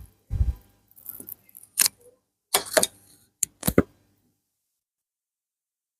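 Short clattering and rustling handling noises, a handful of separate clicks and knocks over about four seconds, which then stop.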